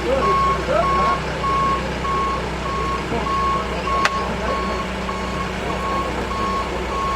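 A vehicle's reversing alarm beeping steadily, about two short beeps a second, over the low, even running of a heavy diesel engine. A single sharp click sounds about four seconds in.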